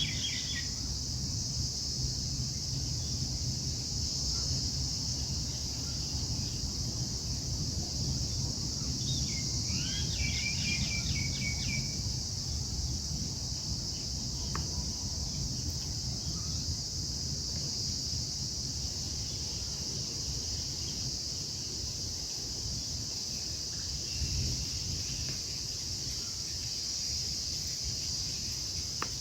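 Steady, high-pitched insect drone, with a bird's short run of rapid repeated notes at the very start and again for a couple of seconds about ten seconds in, over a low background rumble.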